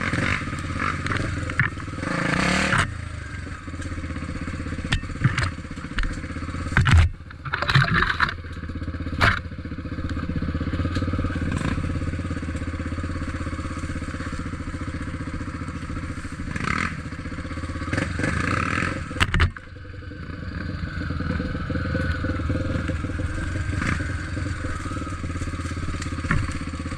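Trail motorcycle engine running steadily while riding, with several sharp knocks and clatter over rough ground.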